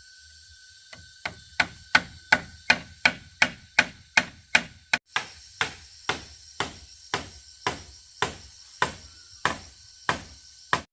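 A hand tool striking wood in regular blows, about three a second, with a short break about five seconds in.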